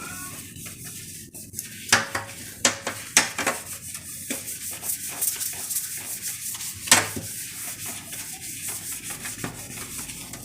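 Repeated scrubbing strokes, with a few sharp knocks in the first half and one more about seven seconds in.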